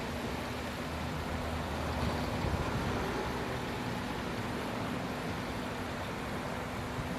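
Steady outdoor background noise: a low rumble and hiss with a faint steady hum, like distant traffic or an engine mixed with wind or water. No bird call stands out.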